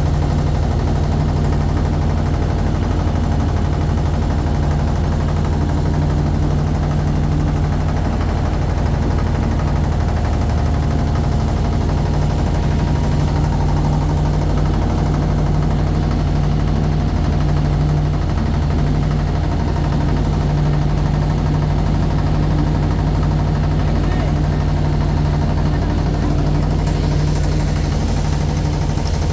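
Motorboat engine running steadily at a constant speed, an unbroken low hum.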